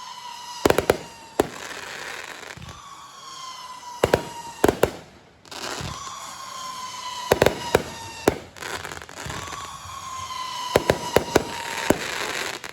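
Fireworks display: clusters of sharp bangs, several in quick succession at a time, with long whistles that slowly fall in pitch, over a steady hiss.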